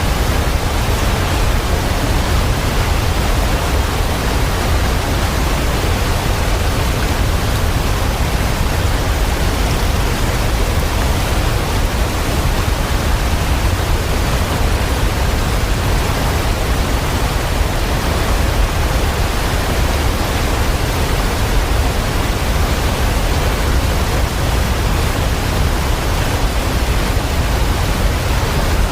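Falling water: a steady, even rush with no separate drops and no changes.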